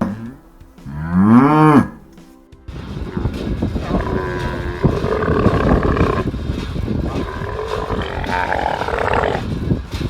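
A cow moos once, a pitched call rising and falling over about a second, near the start. It is followed by a long, rough sound that runs for most of the rest and cannot be identified.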